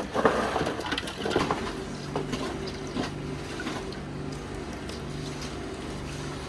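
Irregular clattering and knocking, then, about two seconds in, a small engine starts a steady low hum.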